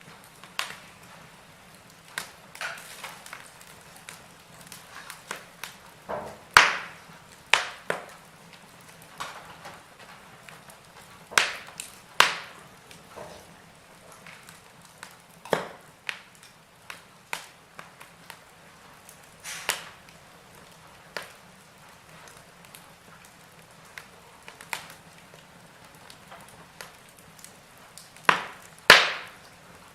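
Logs burning in a fireplace, crackling: irregular sharp pops and snaps over a faint steady hiss, with the loudest pops about six seconds in, about twelve seconds in and near the end.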